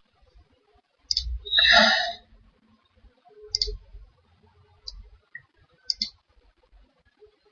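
Computer mouse clicks, a few single clicks spaced one to two seconds apart. The loudest sound is a short breathy noise about a second and a half in.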